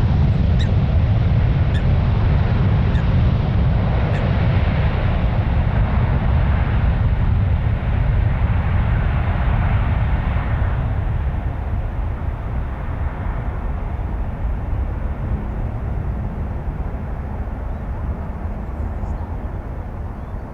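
Boeing 747-400F freighter's four jet engines rumbling after takeoff, fading steadily as the aircraft climbs away, with the higher part of the roar dying out first.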